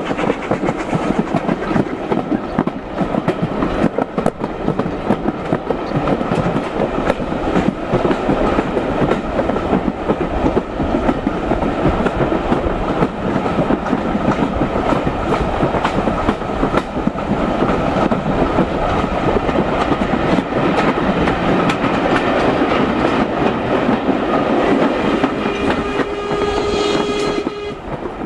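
Running noise of a heritage steam train's carriage on the move: a steady rumble with wheels clicking over the rail joints. A held tone joins near the end, just before the sound cuts off.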